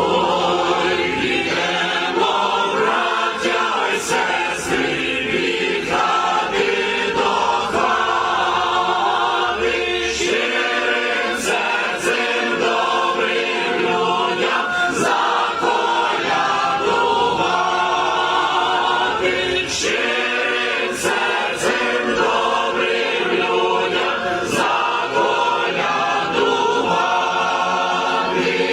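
Church choir singing a Ukrainian Christmas carol (koliadka).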